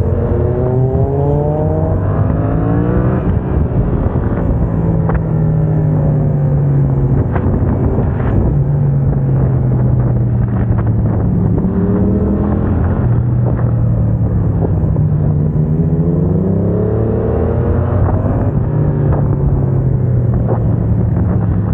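Yamaha MT-07's parallel-twin engine through a MIVV aftermarket exhaust, ridden hard: the revs climb in sweeps and drop quickly at each quickshifter upshift, with a few sharp cracks around the middle.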